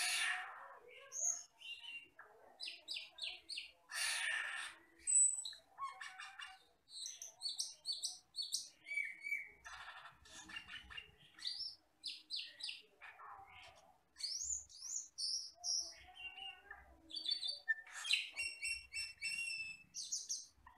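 Asian glossy starling (camperling or cucak keling) calling in a busy run of short chirps and whistles, with harsh, scratchy notes mixed in, loudest at the start and about four seconds in.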